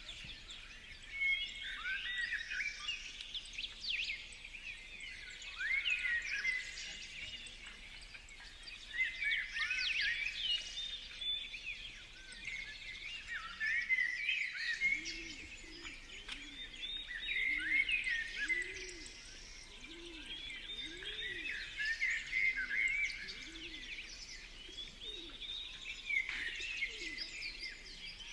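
Several birds chirping and calling over one another in overlapping bursts of short, high notes. From about halfway through, a run of low, repeated arching notes joins in.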